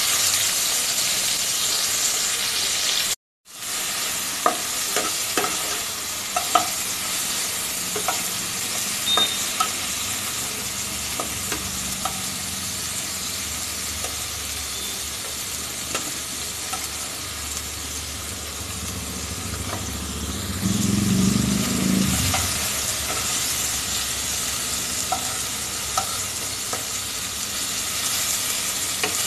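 Whole prawns sizzling loudly as they go into hot oil in a non-stick kadai, then frying steadily, with scattered clicks and scrapes of a spatula turning them against the pan. The sound cuts out for a moment about three seconds in.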